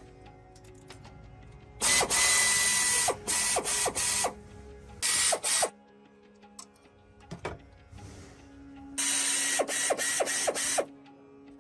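Tool work on a truck engine: three loud bursts of rasping, ratcheting noise with clicks, the longest near the end.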